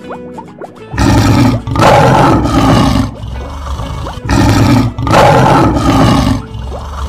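Lion roar sound effect, heard twice: two loud, rough roars about three seconds apart, each in two parts, over faint harp music.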